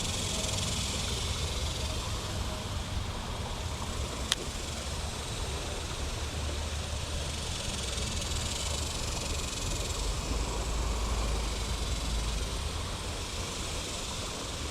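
Outdoor ambience: a steady low rumble with a high hiss over it, and one sharp click about four seconds in.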